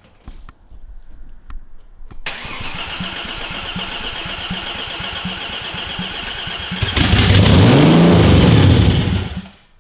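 BMW S50B30 24-valve inline-six cranking over on the starter with a steady rhythmic chug for about four and a half seconds. It catches about seven seconds in, and its revs rise and fall once before the engine stops. This is a first start after a swap, once reversed fuel feed and return lines had been corrected.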